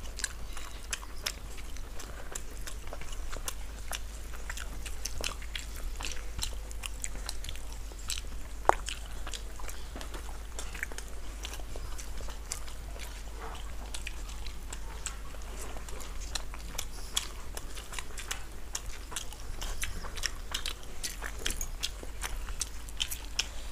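Two people eating rice, puri and paneer curry with their hands: chewing and mouth sounds with many short clicks throughout, over a steady low hum.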